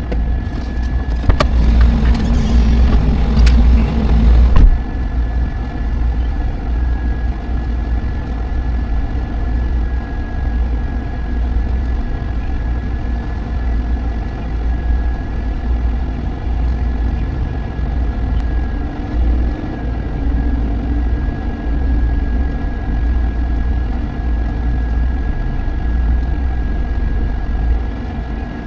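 Semi-truck's diesel engine running with a steady low rumble, heard from the cab, with a thin steady high whine throughout and a louder rush of noise over the first four or five seconds.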